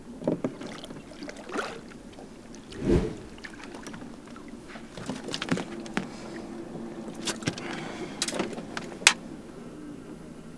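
Irregular knocks, clicks and a dull thump on a bass boat, over a steady low hum.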